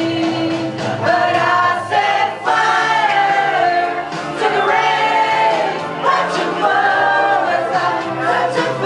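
Pop song sung with held, sliding notes over instrumental backing music.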